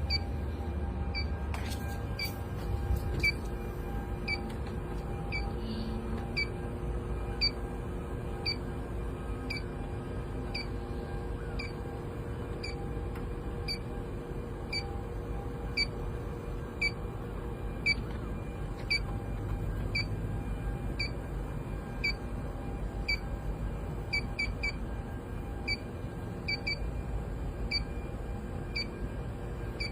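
Electronic refrigerant leak detector beeping in short high pips about once a second, a few coming closer together near the end, over the steady hum of the air-conditioning unit.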